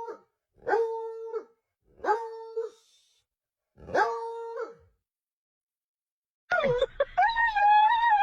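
An animal giving three short, drawn-out bark-like calls at an even pitch. After a silence of about two seconds, a louder howl with a wavering pitch begins near the end.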